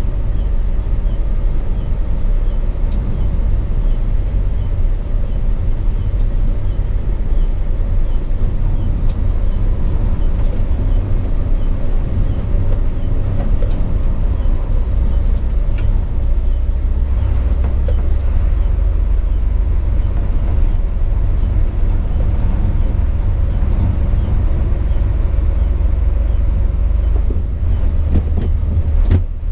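Hino 500 FM 260 JD ten-wheel truck's inline-six turbodiesel running under way, heard from inside the cab as a steady low rumble mixed with road noise. The level dips briefly near the end.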